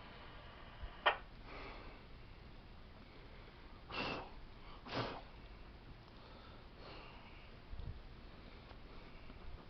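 Quiet handling sounds: one sharp click about a second in, two short sniff-like hisses about a second apart near the middle, and a low thud near the end.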